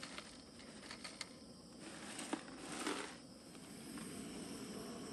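Breakfast food packaging being handled: crinkling and rustling with a few light clicks, loudest about two to three seconds in, over a steady low rushing.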